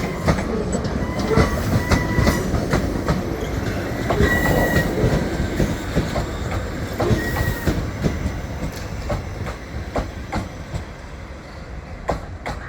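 Passenger train rolling past over the station pointwork, its wheels clicking over rail joints and points with a few brief wheel squeals, the sound slowly fading away near the end.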